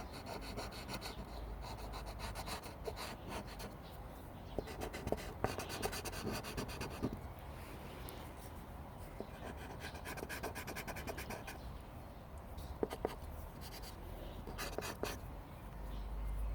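Charcoal stick scratching and rubbing across drawing paper in several runs of quick hatching strokes, with short pauses between them.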